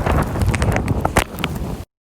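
Storm wind buffeting the microphone in a heavy low rumble, with several sharp clicks or crunches. It cuts off abruptly to silence near the end.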